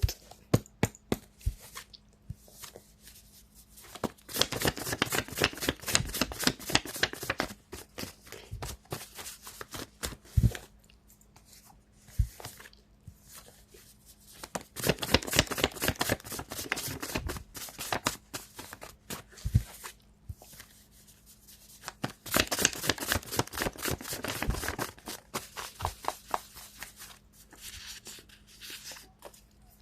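A deck of tarot cards being shuffled by hand: three main bursts of rapid flicking clicks, with a few stray taps and pauses between.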